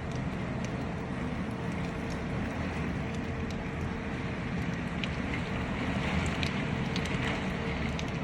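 Heavy rain falling: a steady hiss with scattered sharp drop splashes and a low rumble underneath.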